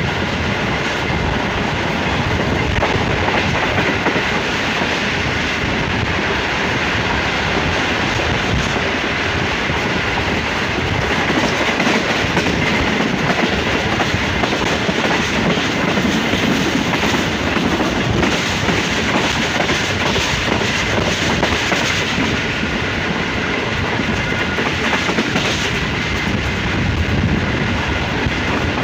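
Passenger train running at speed: the steady running noise of the coaches' wheels on the rails, heard from an open window of a moving coach.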